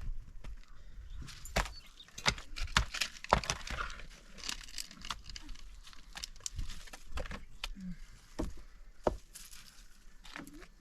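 A run of irregular sharp knocks and snaps with some rustling, busiest in the first half.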